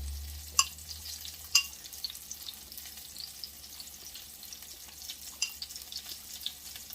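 Breaded chicken frying in a pan of oil, a light steady sizzle with scattered crackles, and a couple of sharp clicks in the first two seconds.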